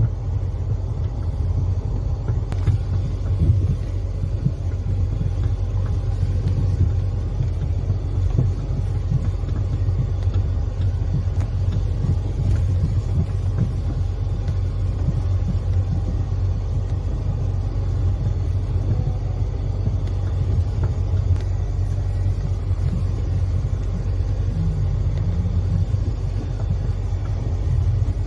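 Steady low rumble of a car on the move, road and engine noise with no change in pace.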